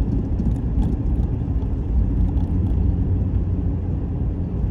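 Road noise inside a moving car's cabin: a steady low rumble of engine and tyres at road speed.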